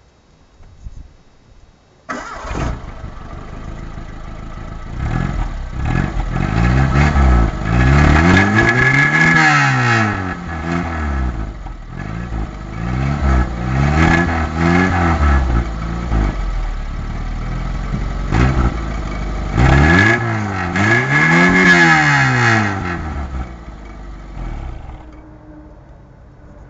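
Renault 5 1.1 four-cylinder petrol engine starting abruptly about two seconds in, then idling. It is revved in three groups of blips, the pitch rising and falling with each. It drops back to a quieter idle near the end.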